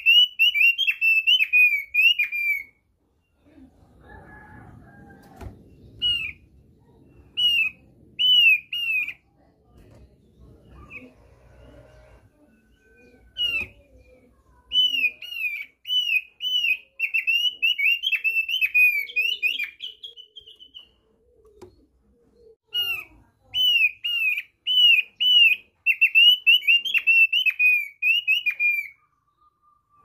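Thick-billed white-eye (opior paruh tebal) singing: runs of quick, repeated downward-slurred whistled notes, in phrases of a few seconds with short pauses and a few single notes between.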